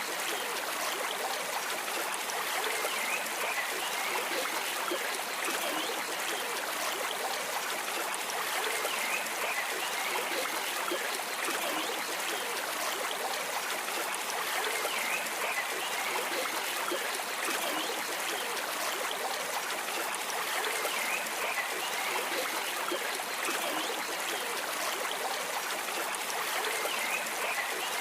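Stream water flowing and trickling over stones, a steady rushing with no break.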